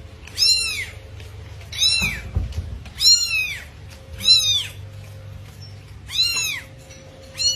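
A cat mewing: about six short, high-pitched mews, each rising then falling in pitch, roughly one every second or so, over a low steady hum.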